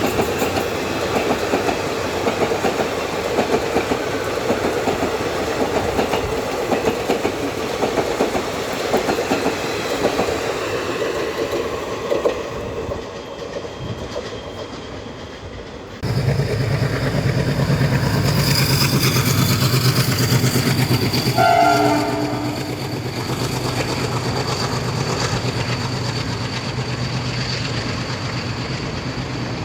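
A train passing at speed with its wheels clattering over the rail joints, fading away after about twelve seconds. About halfway through, the sound cuts suddenly to another train with a steady low locomotive hum and a high whine, and its horn sounds one short blast a few seconds later.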